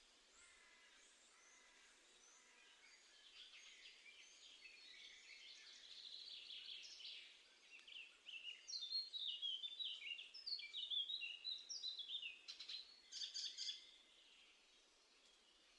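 Small songbirds chirping and singing, building from a few seconds in to a rapid run of short, quick chirps that is loudest in the second half, then dying away.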